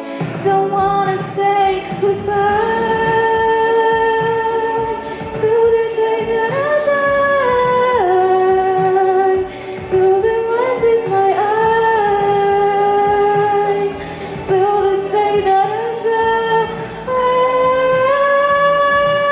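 A young girl singing long, held wordless notes that step up and down in pitch, over a pop backing track.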